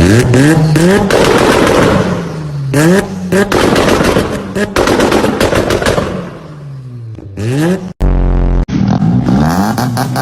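Car engine revving up and down several times, with rapid popping and crackling from the exhaust. About eight seconds in it cuts to another engine revving.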